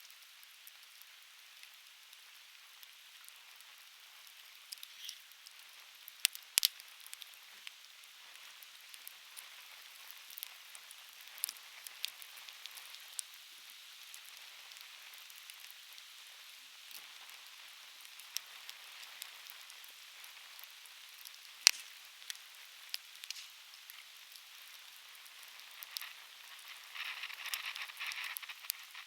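Conifer firewood burning in a campfire: a steady hiss with frequent small crackles and occasional sharp, loud pops, the two loudest a few seconds in and about three-quarters of the way through, and a short burst of denser hissing near the end.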